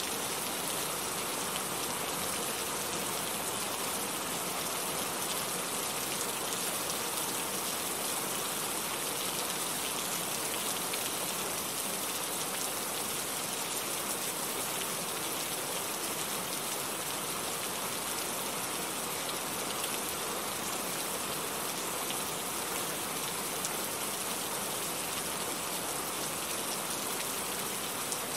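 Heavy rain falling steadily, an even hiss of many drops with no breaks.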